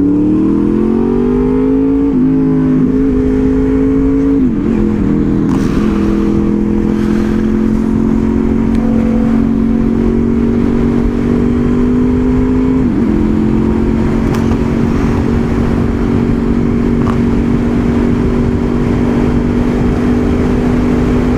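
Honda VFR800 Interceptor's V4 engine heard from on the bike, its pitch rising for the first two seconds, then held at a steady cruise, with brief breaks in pitch about two, four and a half and thirteen seconds in.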